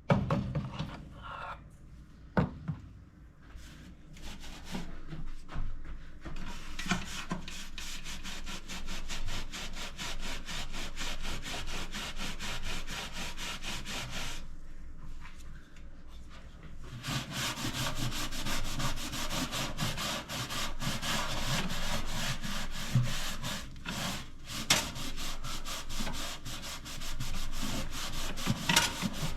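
A sponge with baking soda scrubbing greasy grime off a toaster oven in rapid back-and-forth strokes, a steady rasping rub. It pauses for a couple of seconds about halfway through, then starts again.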